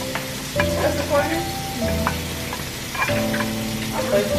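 Food sizzling as it fries in a pan on the stove, over background music with held notes and a bass line.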